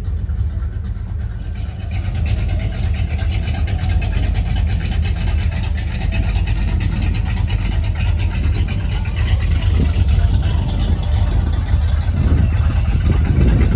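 A car engine running with a steady low rumble, joined about two seconds in by a broader hiss of noise that grows louder toward the end.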